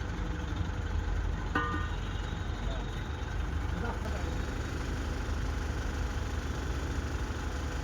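Diesel engine of an Ace Hydra pick-and-carry crane running steadily at low revs, with a brief high-pitched call or squeal about one and a half seconds in.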